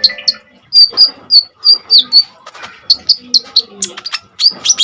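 Kolibri ninja sunbird singing: quick runs of short, sharp, high chirps, some sweeping down in pitch, with a dense burst of notes near the end.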